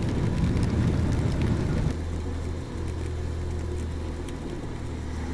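Motorcycle on the move: wind and road rush over a steady low engine drone. About two seconds in the rush drops away, leaving mostly the even engine hum.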